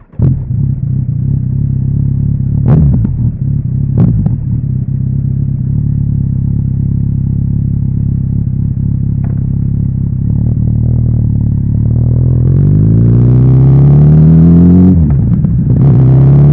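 Kawasaki Z900RS inline-four engine through its stock exhaust, running steadily with two sharp clacks in the first few seconds. From about twelve seconds in it revs up under acceleration, the pitch drops suddenly near fifteen seconds at a gear change, and it climbs again.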